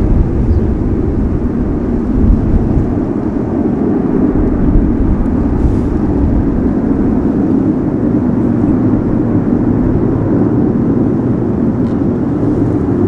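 Boeing 707 jet engines running at high power, a loud, steady low rumble with no breaks.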